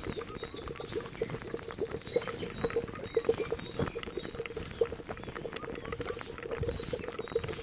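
A cauldron of liquid at a rolling boil, bubbling with a dense, irregular stream of small pops.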